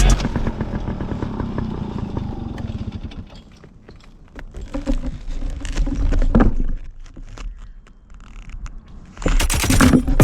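Motorcycle engine running with a rapid putter that fades after about three seconds, followed by quieter scattered knocks and clatter, growing louder again near the end.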